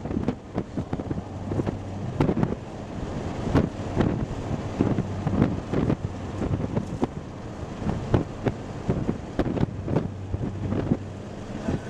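Wind buffeting the microphone in irregular gusts and thumps over a steady low hum.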